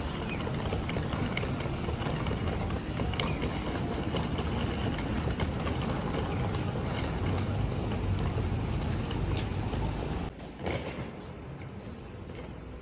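Steady low rumbling noise, like wind or traffic on a handheld camera's microphone, with faint clicks through it. It drops away suddenly about ten seconds in, leaving a quieter background.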